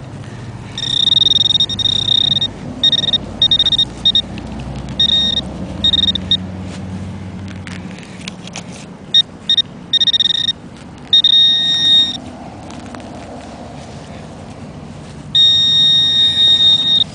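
High-pitched electronic target tone from metal-detecting gear, sounding in on-off bursts of uneven length, from quick beeps to tones held over a second, as it is swept over and homes in on a strongly reading buried coin target. Short clicks and rustling between the tones.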